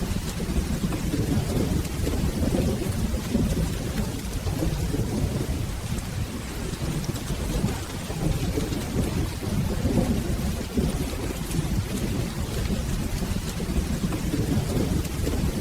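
Steady rain with a continuous low rumble of rolling thunder that swells and eases without any sharp clap.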